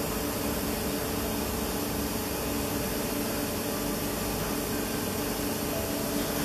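Steady mechanical hum and hiss of railway equipment at a standing passenger train, with several steady droning tones and no distinct knocks or wheel clicks.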